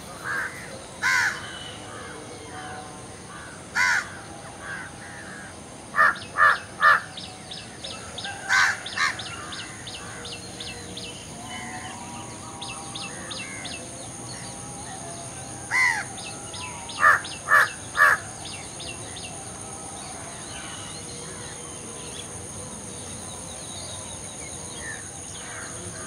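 Wild birds calling: loud harsh caw-like calls, twice in quick runs of three, with a fast run of high clicks twice and a steady high-pitched hum behind.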